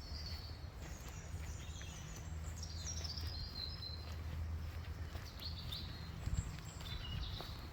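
Wild songbirds singing and calling, with several short falling chirped phrases, over a steady low rumble.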